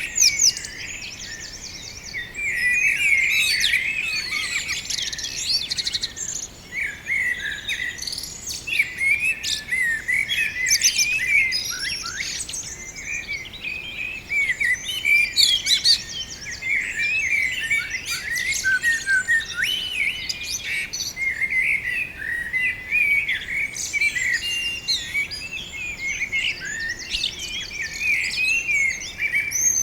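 Several birds chirping and singing almost without a break, a dense run of quick, high, overlapping chirps and trills.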